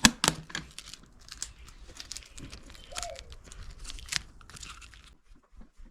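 Scattered light clicks, taps and crinkling of small objects being handled on a workbench.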